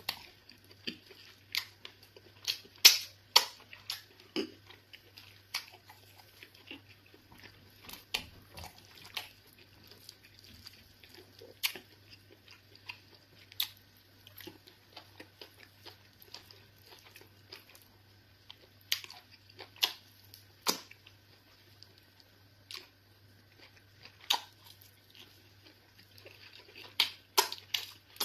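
Close-miked eating sounds of a person chewing eba and fufu with egusi soup: irregular wet smacks and clicks of lips and mouth, unevenly spaced, over a faint steady hum.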